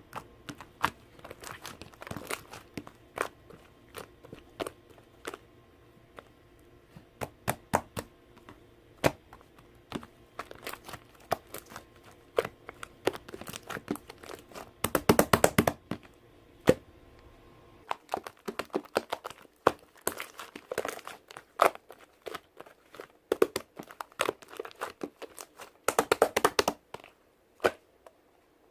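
Slime being worked by hand, giving off sharp clicks and crackling pops in irregular runs, with two dense bursts, one about halfway through and one near the end.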